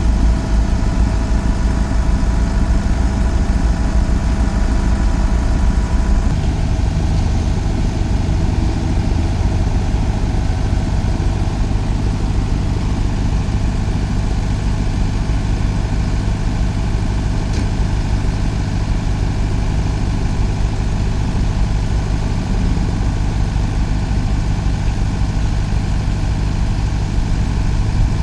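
Diesel engine of a Svedala Demag DF65C crawler asphalt paver running steadily at idle; its note drops slightly about six seconds in and then holds.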